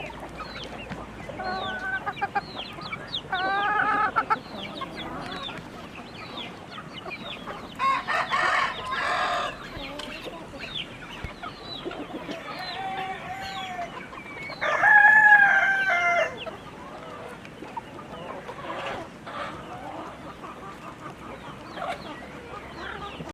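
A flock of chickens clucking and calling, with many short high peeps throughout. A louder crow-like call comes about fifteen seconds in.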